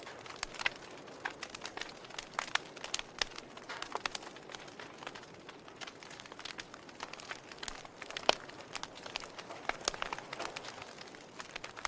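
Fire burning and crackling: irregular sharp pops and snaps over a soft steady hiss, the loudest pop about eight seconds in.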